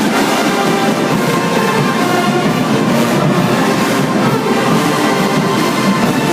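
Marching band playing loudly: brass section over drums.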